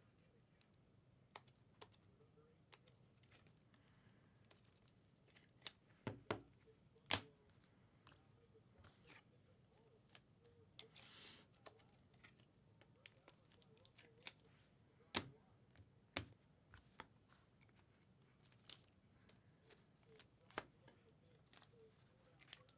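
Faint handling of trading cards and their packaging on a table: scattered light clicks and taps, with a brief rustle about eleven seconds in.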